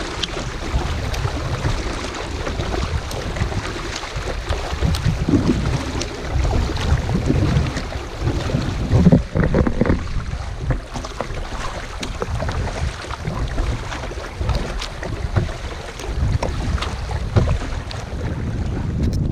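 Wind buffeting the microphone in gusts while a kayak is paddled, with faint water splashes and lapping.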